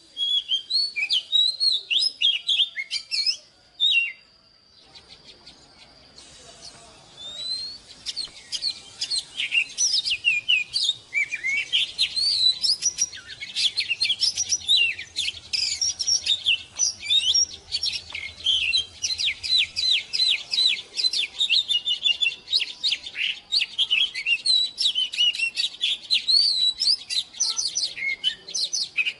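Oriental magpie-robin singing: a fast, varied run of high whistles and chirps. It breaks off for about two seconds near the start, then resumes and carries on densely.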